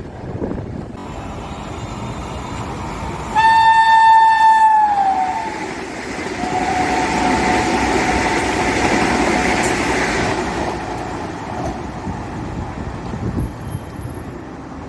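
Train passing through the station without stopping: a loud horn blast about three seconds in whose pitch drops as the train goes by, then a longer, quieter two-tone horn over the rush of the passing train.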